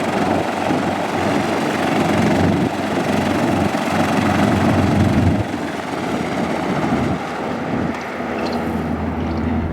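Lockheed P-38 Lightning's twin Allison V-12 piston engines and propellers running loud on takeoff, a steady drone whose deepest part drops away about halfway through.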